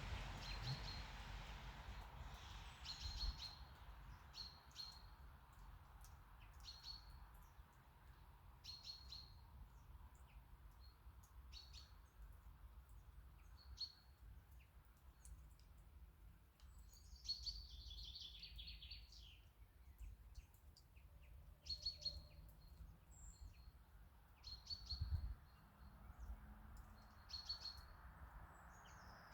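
Small birds calling faintly: short, high chirps repeated every second or two, with a brief run of several falling notes about halfway through, over a low outdoor rumble.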